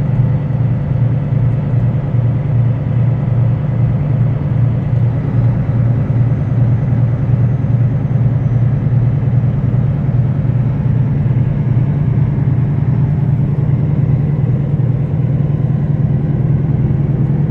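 Semi truck's diesel engine and road noise droning steadily, heard from inside the cab while driving.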